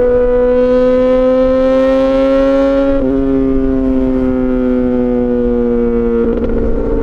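Yamaha XJ6 S motorcycle's inline-four engine through an SC-Project exhaust, running loud and steady under way. Its pitch climbs slowly, breaks briefly about three seconds in, then eases gradually down.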